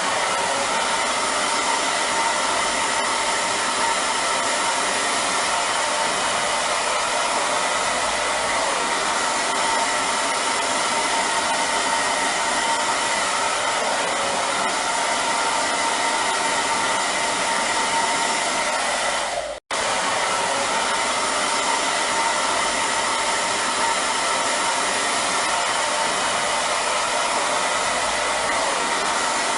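Hair dryer running steadily: a continuous rushing blow with a faint steady whine from its motor. The sound drops out for a split second about two thirds of the way through.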